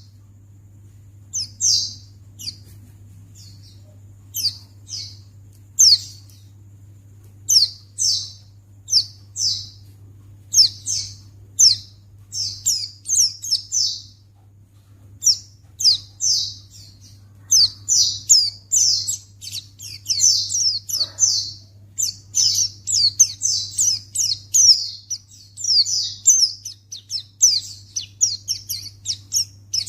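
White-eye (pleci) chirping in a lure-call recording: quick high chirps, each sweeping downward, in short clusters that come thicker and almost continuous from about halfway on, over a faint steady low hum.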